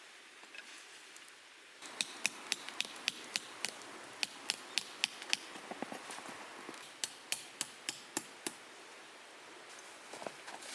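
Rapid, evenly spaced hammer blows, about three a second, in two runs: one of a dozen or so strikes, then after a pause a shorter run of about six.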